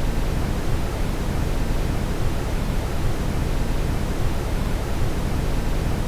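Steady brown noise: an even, deep rushing hiss, heaviest in the low end, that does not change.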